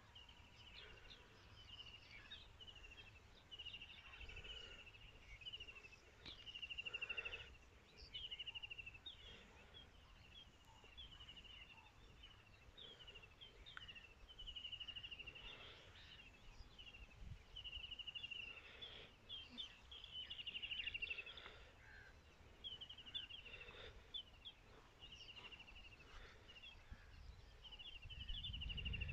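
Small birds chirping, with short rapid trilled phrases one after another, fairly faint. A low rumble rises near the end.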